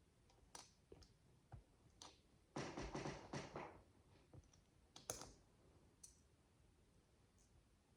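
Faint clicks and taps of plastic micro bricks being handled and pressed together, with a louder stretch of clattering about two and a half seconds in that lasts about a second, and a sharp click a little after five seconds.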